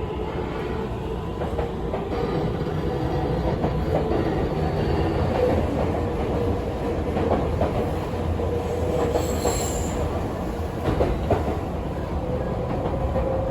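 Tokyu 5050 series electric train running at speed: a steady rumble of wheels on rail with a faint steady tone and a few rail-joint clicks. A brief high wheel squeal comes about two-thirds of the way through.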